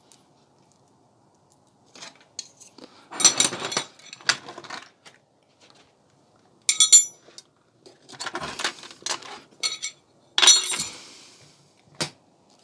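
Metal parts of a television being dismantled, clinking and clattering in about five separate bursts, some with a brief metallic ring.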